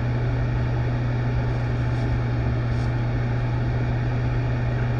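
A steady low hum with an even hiss beneath it, unchanging throughout.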